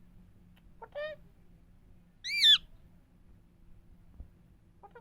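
Green parrot calling twice: a short call about a second in, then a louder, higher, arching call about two and a half seconds in.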